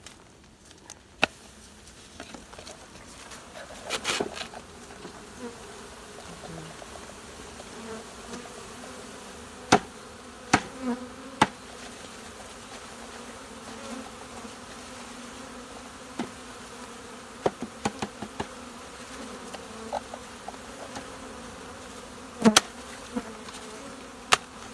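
A mass of honeybees buzzing in a steady hum that swells a few seconds in. A few sharp knocks sound now and then over it.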